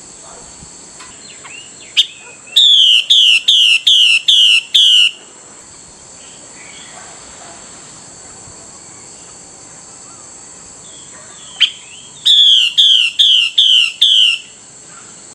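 Female Chinese hwamei (họa mi mái) giving its rousing call: a sharp single note, then a quick run of six loud, repeated downslurred whistles. After a pause of about seven seconds the phrase comes again, a sharp note and five whistles.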